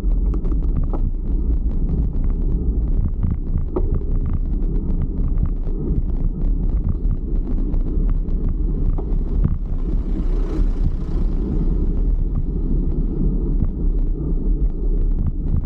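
Wind buffeting the microphone during a bicycle ride: a steady low rumble with many small ticks. A brief rushing hiss rises and fades about ten seconds in.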